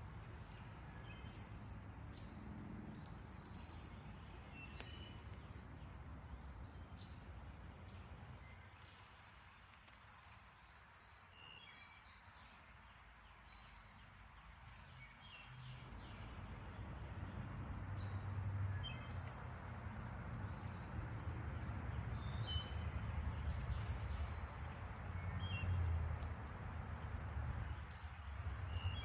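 Outdoor nature ambience: a steady high insect drone with scattered short bird chirps, over a low rumble that grows louder in the second half.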